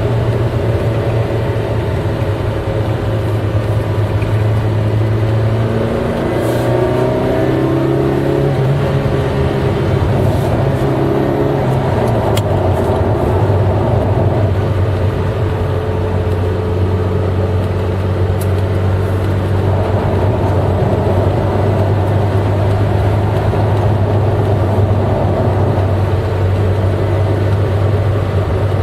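Eight-cylinder car engine running while driving, its note shifting up and down about six to twelve seconds in, then holding a steady low drone.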